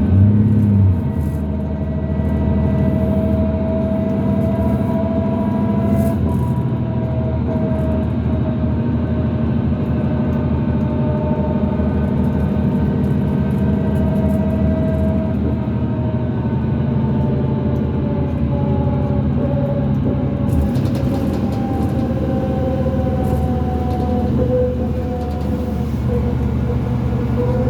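2005 New Flyer D40LF transit bus under way: its Cummins ISL diesel runs with a steady drone, over which a whine from the rear axle rises and falls slowly in pitch, an unusual axle noise for this bus.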